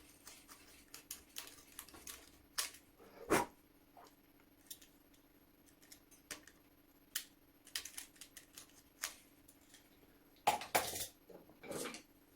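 Knife blade scraping and clicking against the rusted screws of an antique flintlock shotgun, working dirt and rust out of them in short, irregular scrapes and taps, with a few louder scrapes near the end.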